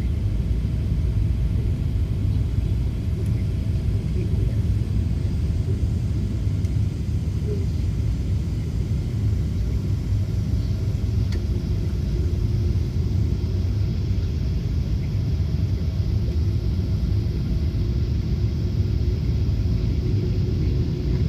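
Boeing 777 airliner noise: a steady low rumble with faint steady tones above it.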